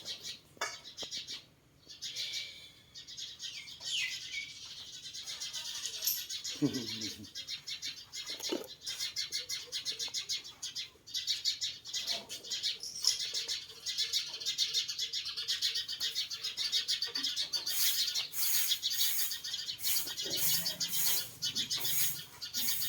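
Birds chirping in a dense, steady, high-pitched chorus of rapid calls, with a few brief faint low sounds underneath.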